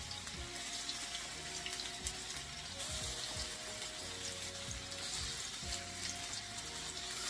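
Raw meatballs frying in shallow hot oil in a pan: a steady sizzle with small crackles as more balls are set into the oil.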